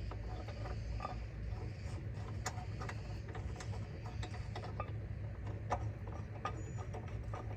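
Hand ratchet clicking in short, irregular runs as the bolt of a brake caliper bracket is tightened, over a steady low hum.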